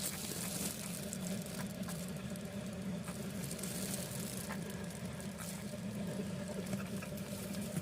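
A steady low hum, like a small motor running, with a hiss and scattered faint taps and clicks over it.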